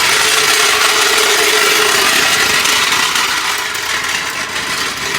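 Power tool running steadily on the truck's U-bolt and leaf-spring hardware, loud and hissing, with a whining tone that fades about halfway through.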